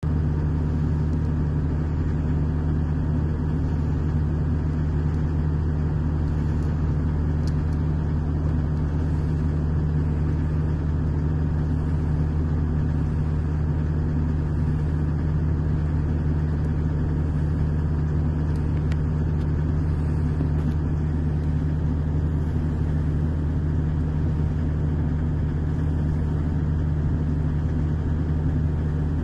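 Digger's diesel engine idling, a steady low hum that does not change.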